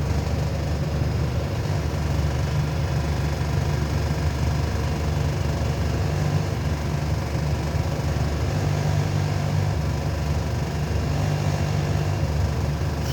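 Connecting-rod cap grinder running steadily, its motor and grinding wheel giving an even low hum.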